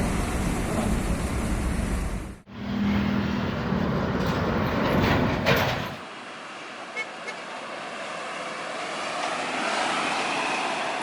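Heavy trucks on a road: diesel engine and tyre noise from passing trucks, heard in three short clips cut together, the last one quieter.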